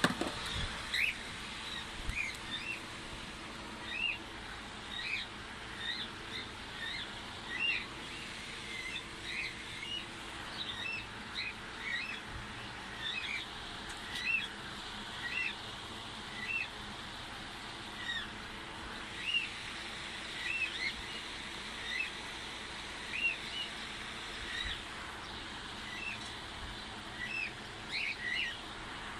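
Cockatiel giving short chirping calls, one after another about once a second, each a quick bend in pitch, over steady background noise.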